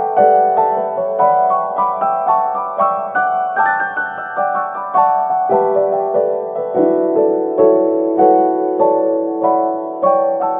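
Background piano music: a gentle melody of struck notes that ring and fade, played at an even pace.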